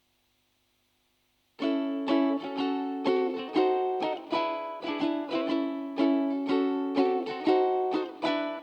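A ukulele strummed in a steady rhythm, about two strokes a second: the instrumental intro to a song. It starts about a second and a half in, out of silence.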